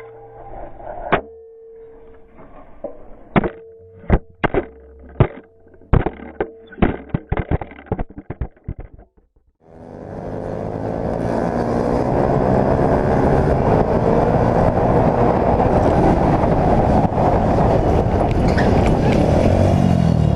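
A run of sharp knocks and clicks over a steady low hum for about nine seconds. Then a cut, and the running noise of a motorcycle on the road, with wind noise, swells in over a couple of seconds and holds steady.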